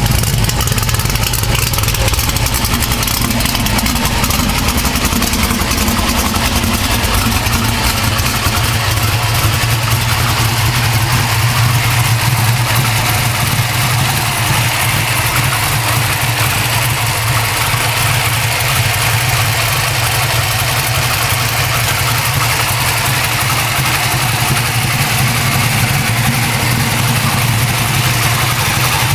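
Engine idling steadily through a full exhaust with 3-inch Goerlich X107 mufflers, a constant low exhaust drone.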